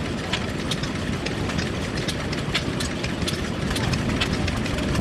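Old engine running steadily with a low rumble and sharp, even ticks two or three times a second.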